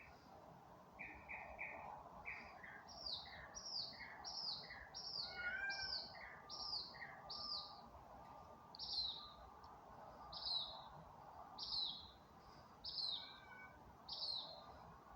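A songbird singing at night in a string of short, down-slurred whistled notes. It opens with quick groups of three lower notes, then repeats higher notes about once a second, the phrase changing partway through.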